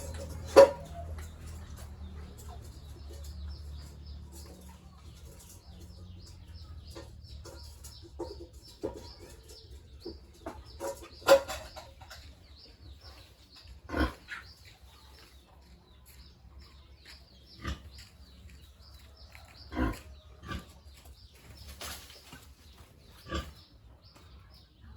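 Pigs grunting now and then, in short separate sounds a second or several seconds apart.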